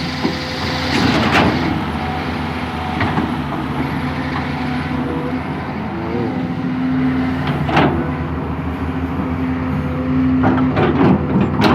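Hydraulic excavator's diesel engine running steadily under load while digging and levelling soil, with a few sharp knocks and clanks, mostly near the end.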